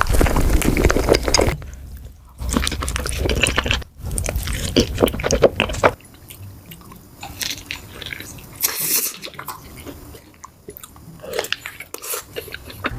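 A person chewing and biting food in a mouthful-by-mouthful eating sequence. It is loudest and densest over the first six seconds, then goes quieter with scattered smaller mouth sounds.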